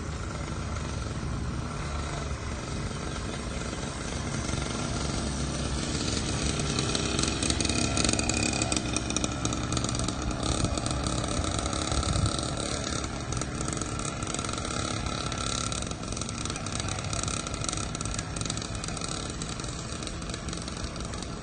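Kids' dirt bike engine running, getting louder from about six seconds in, then easing off again after about thirteen seconds.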